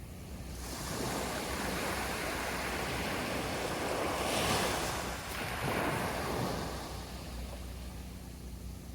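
Sea waves breaking and washing up on the beach: the surf swells in about half a second in, is loudest around the middle, and fades away toward the end.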